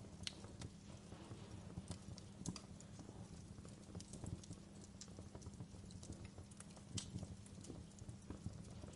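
Campfire crackling: irregular sharp pops and snaps, a few of them louder, over a low steady background of the burning fire.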